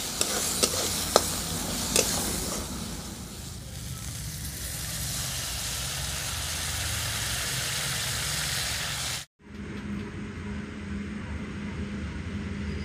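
Spice masala sizzling in hot oil in a steel kadai, with the metal spatula clicking and scraping against the pan in the first couple of seconds, then a steady sizzle as a little water goes in. It cuts off abruptly about nine seconds in, giving way to a quieter background with a low steady hum.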